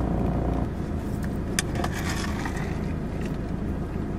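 Car engine idling, heard from inside the cabin: a steady low hum that shifts slightly under a second in, with a few light clicks around the middle.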